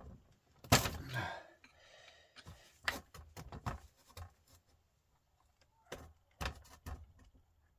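Scattered knocks and clinks of hand tools against the metal parts of a truck starter motor being taken apart, the loudest under a second in and a quick run of them near the end, with quiet gaps between.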